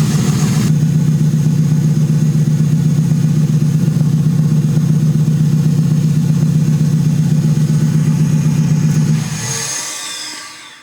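Twin-turbo Ford 6.2-litre V8 running steadily on the lift, uninterrupted because the shift-knob ignition cut is not cutting. It shuts off about nine seconds in, leaving a high whine that falls away as it winds down.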